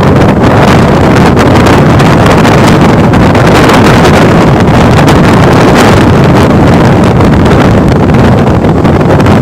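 Moving express train running at speed, with a loud steady rush of wind blowing across the microphone.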